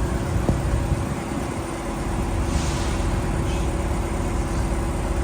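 Semi truck's diesel engine idling steadily, with a brief hiss about two and a half seconds in.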